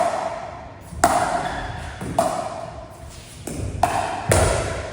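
Pickleball paddles hitting a plastic ball back and forth in a rally: four sharp pocks with a short ring, roughly one a second. The last hit is heavier, with a deeper thud.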